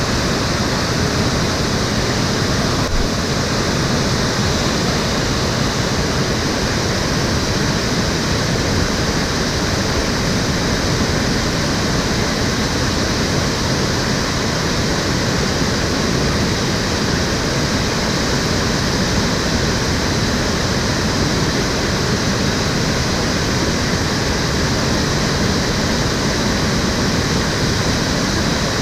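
Water of the Cheonggyecheon stream flowing and splashing, a steady full rushing.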